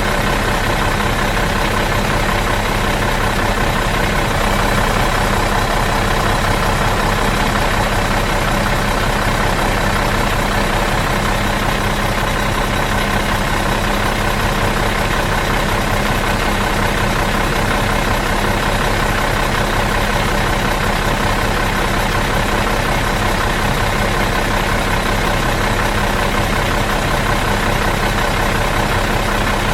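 Bus engine idling in neutral, a steady, even drone that does not change.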